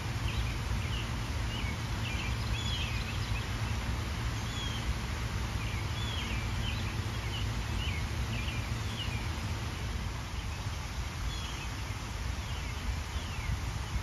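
Small birds chirping in short, quick twittering phrases, in three or four bouts, over a steady low rumble and hiss.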